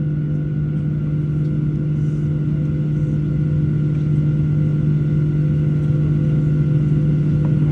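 Steady cabin drone inside a Boeing 737-700 on the ground: an even, unchanging hum with a low tone, from the aircraft's engines and air system.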